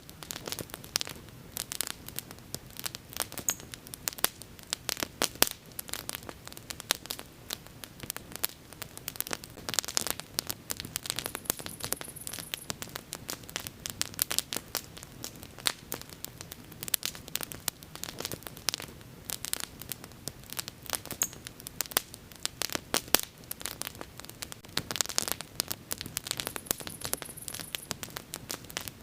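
Wood bonfire burning, with dense, irregular crackles and sharp pops over a low steady hiss.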